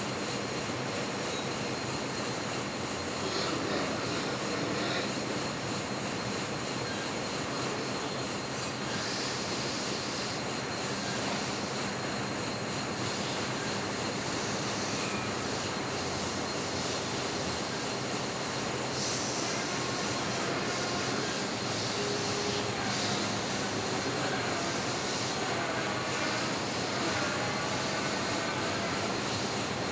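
Metal lathe running with a steady, even machine drone and a constant low hum.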